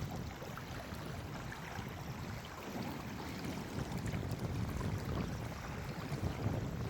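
Moving water, with wind rumbling on the microphone.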